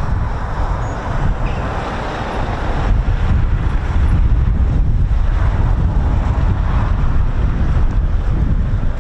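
Strong wind buffeting the microphone: a loud, steady low rumble with a noisy hiss above it, growing a little louder about three seconds in.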